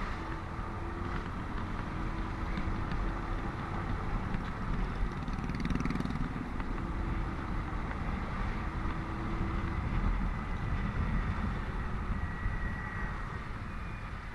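Riding a motorcycle in highway traffic: a steady rumble of engine, tyres and wind, with the sound of other vehicles running nearby.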